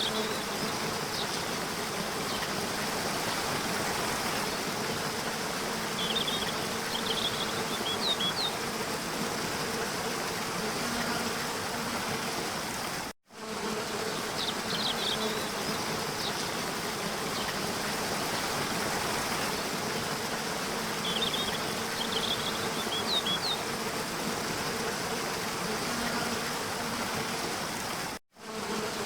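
Waterfall water rushing steadily, with a faint low hum and two bursts of short high chirps. The sound cuts out for an instant about 13 seconds in and again near the end, where the looped track restarts.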